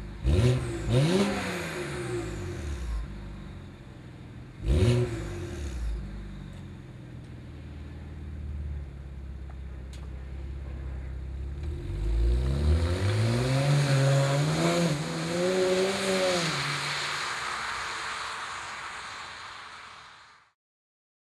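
BMW 135i's twin-turbo inline-six breathing through catless bypass downpipes: three quick throttle blips from idle, a few seconds of idle, then a hard pull away with the engine note rising, dropping at a gear change and rising again before fading into the distance.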